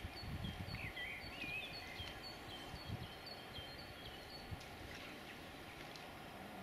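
A small bird calling with a quick string of short, high chirps over a steady outdoor background hiss. The chirps fade out after about four seconds, and a few low rumbles come in the first three seconds.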